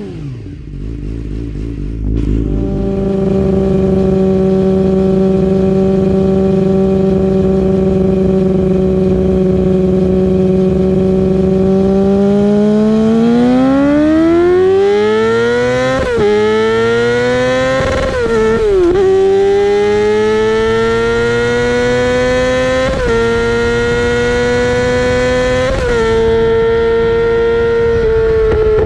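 2018 Yamaha R6 inline-four running through a full titanium Akrapovic Evolution GP exhaust. It holds steady revs, then about twelve seconds in climbs in pitch, dipping briefly four times as it changes up through the gears.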